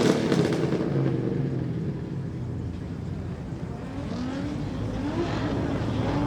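Car engines at a car meet: a revving engine fades over the first second or two into a low, steady rumble, then another engine rises in pitch and grows louder near the end.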